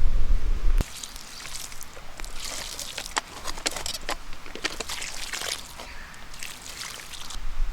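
A low rumble that stops abruptly under a second in, then campfire embers crackling and hissing, with irregular sharp pops.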